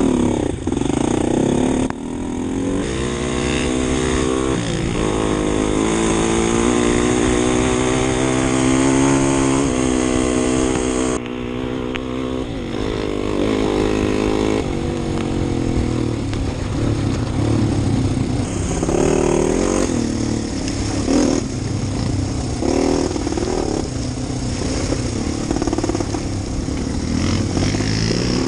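2012 Husqvarna TE250 single-cylinder four-stroke enduro bike being ridden. The engine note rises and falls again and again with throttle and gear changes.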